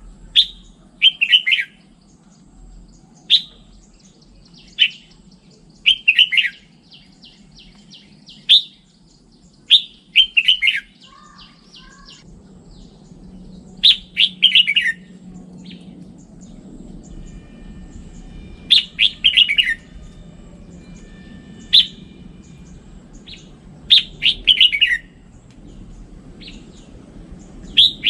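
Red-whiskered bulbul singing: short phrases of a few quick, falling, whistled notes, repeated every one to three seconds, over a faint low hum.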